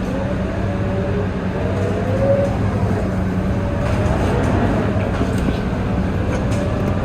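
Scania K230UB city bus under way, heard from inside: a steady diesel drone with a higher whine that rises and falls in pitch as it drives, and a few light rattles.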